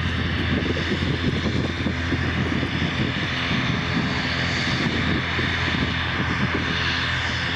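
Airliner engines running with a steady, even rush of noise.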